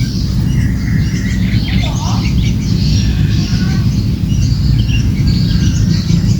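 Small birds chirping in many quick, high notes, the calls of a cembelek and its chicks at feeding time, over a steady low rumble.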